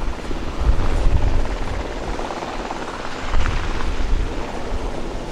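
Sikorsky UH-60 Black Hawk helicopters flying, their rotors and turbine engines making a loud, deep rumble that swells about a second in and again just past three seconds.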